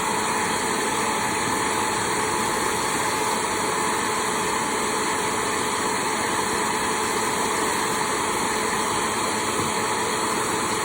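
Hair dryer running steadily on high, a constant rush of air with a steady motor whine, while a cat is blow-dried after a shampoo.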